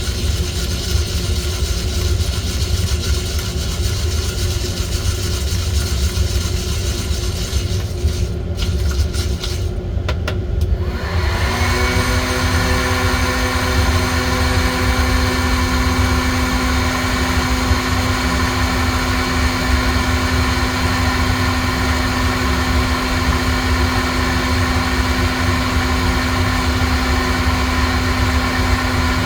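Steady whirr of small electric motors or fans from a home coffee-roasting setup. About eleven seconds in, a motor spins up to a new steady hum that holds to the end.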